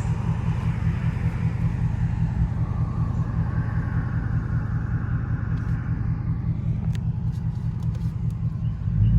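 Ford Mustang GT's 5.0 Coyote V8 running through an MBRP X-pipe and axle-back muffler, cruising with a steady low exhaust rumble. Near the end it grows louder and deeper as the throttle opens.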